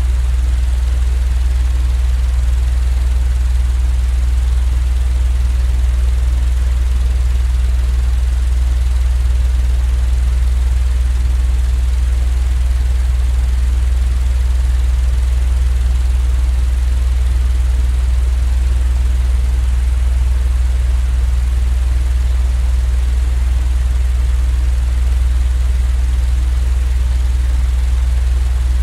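Steady, unchanging low rumbling hum with a faint hiss over it, a sleep-aid noise track of the fan or train kind, holding the same level throughout.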